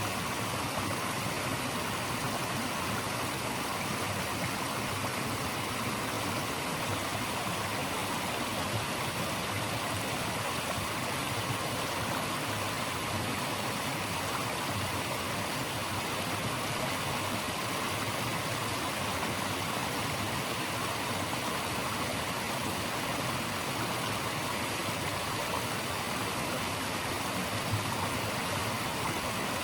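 Steady rushing of flowing water, like a stream or small falls, an even unbroken hiss with no separate events.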